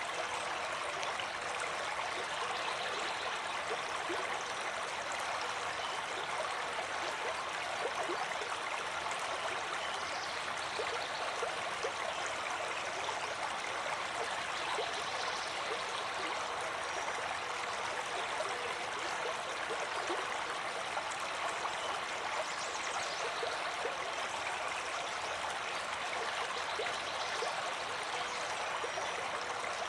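Water flowing in a stream, a steady, even rush with no pauses.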